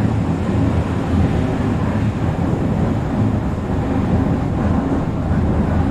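Interior running noise of an Odakyu 3000 series electric multiple unit motor car, which has fully enclosed traction motors and a Mitsubishi IGBT VVVF drive: a steady rumble of wheels on rail and the car body under way.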